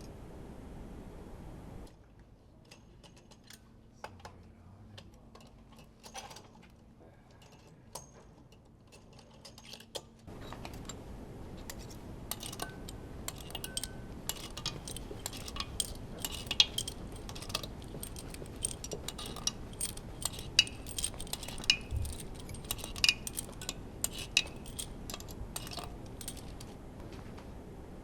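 Small metal clinks and taps of hand tools and engine parts being handled during an engine teardown. The clicks are sparse and quiet at first, then busier and louder from about ten seconds in.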